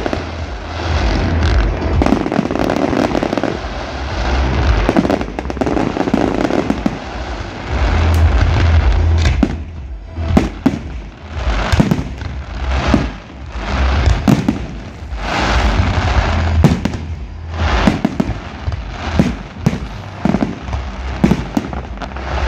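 Aerial fireworks shells bursting: a dense, continuous run of booms in the first half, then many separate sharp bangs and crackles from about halfway through.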